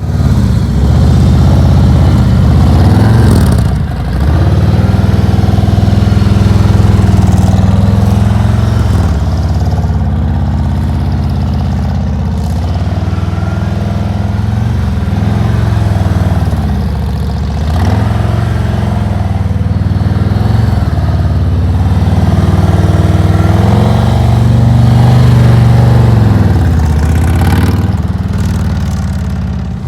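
Motorcycle engine running at low speed, its pitch dropping and picking up again several times.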